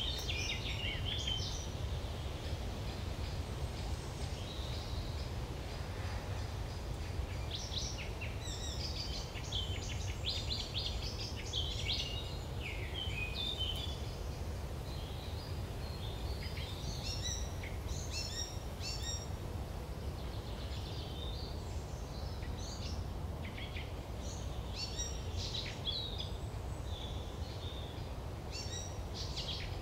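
Woodland ambience of several small birds chirping and trilling on and off over a steady low rumble, recorded through the Sony a6300's built-in camera microphone.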